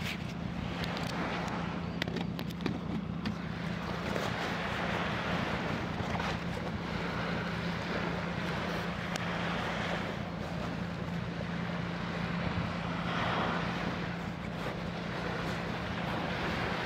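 Waves washing on a sandy beach, swelling every few seconds, over a steady low engine drone, with scattered light clicks.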